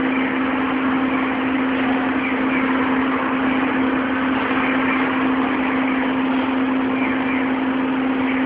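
Construction machinery engine running steadily, a constant hum over an even mechanical noise.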